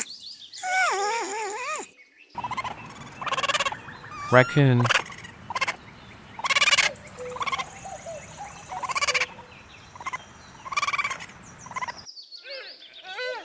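Raccoon calling in a series of short, high, chittering trills, one every second or two. The first two seconds hold the end of a porcupine's wavering, whining calls.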